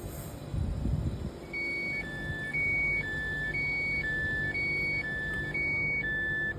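Two-tone door-closing warning on a Tyne and Wear Metro Class 555 train, steady high and low beeps alternating about twice a second, starting about a second and a half in after a brief low rumble.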